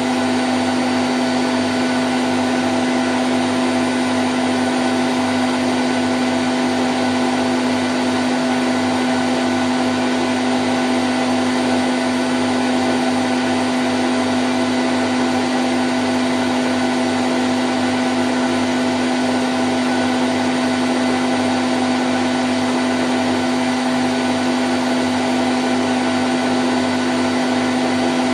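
Candy Grand O' F106 washing machine spinning at 1000 rpm: a steady motor hum with a strong low tone and a few higher whining tones over an even whoosh, unchanging throughout.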